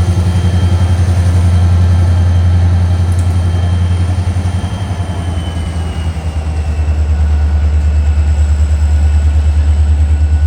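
EMD SD40-2 diesel-electric locomotive's 16-cylinder two-stroke diesel engine running with a loud, fast, heavy throb, easing slightly lower in pitch about halfway through.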